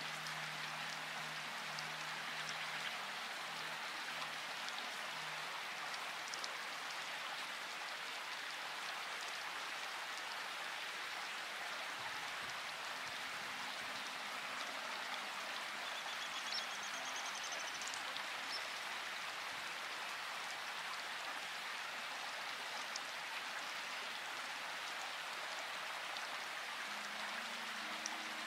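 Steady rain falling, an even hiss of many drops without a break. A brief faint high chirp sounds about halfway through.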